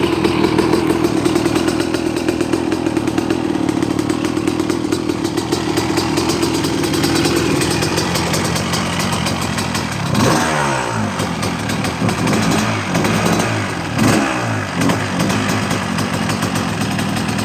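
2001 Honda CR250R's two-stroke single-cylinder engine running on its first start after a rebuild, held at a steady fast idle for about eight seconds, then revved up and down in several throttle blips.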